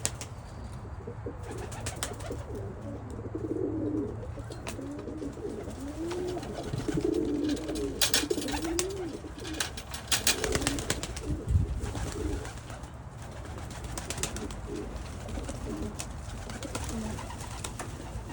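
Pigeons cooing, repeated rising-and-falling coos, with a few sharp clatters near the middle.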